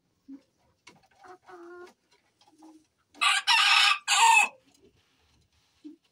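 A rooster crowing once, a loud harsh crow about three seconds in lasting just over a second, with a short break before its last part. Pigeons coo softly in short low notes around it.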